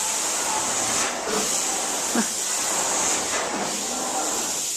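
Hot-water extraction carpet-cleaning wand working the carpet: a steady hissing rush of near-boiling water spray and suction, briefly dipping twice as the wand strokes.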